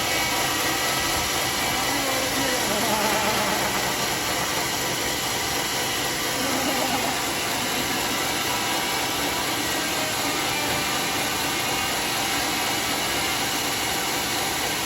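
Homemade sawmill running with a steady, unbroken mechanical noise, its saw cutting teak.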